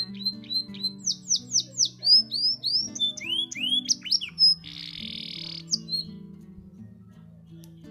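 Domestic canary singing: a quick run of repeated high chips, then loud sweeping whistles that fall and rise, and a short buzzy trill about five seconds in, before the song stops. Soft guitar music plays underneath throughout.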